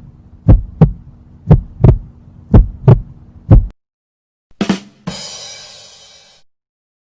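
Heartbeat sound effect: paired low thumps (lub-dub) about once a second, stopping a little before halfway. Then a short hit and a bright, ringing crash that fades over about a second and a half.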